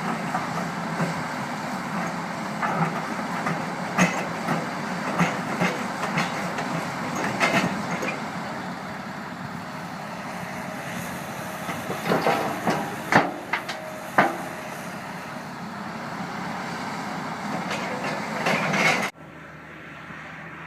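Heavy earthmoving machinery, a rock truck and shovel, running steadily with scattered clanks and knocks. Near the end the sound drops suddenly to a quieter steady running.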